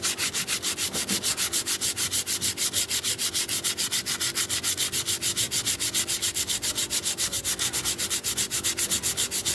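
Fast back-and-forth hand sanding of a car brake pad's edge on sandpaper, about seven strokes a second, stopping suddenly near the end. The pad's sharp edges are being rounded off and blunted so they stop biting into the brake disc and making it squeal.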